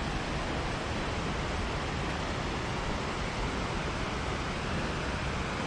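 Steady, even rushing noise outdoors, with no speech and no distinct events.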